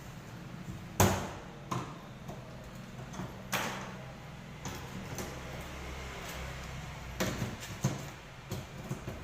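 A series of irregular knocks and clatters from parts being handled and fitted while assembling a mini-tractor cultivator, over a low steady hum.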